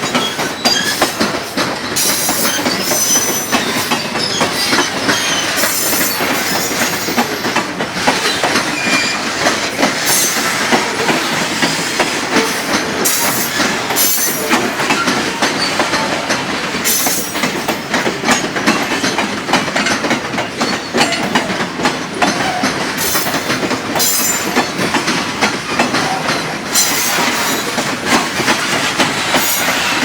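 Freight train wagons rolling past with a steady clatter of wheels over the rails, and high-pitched wheel squeal that comes and goes every few seconds.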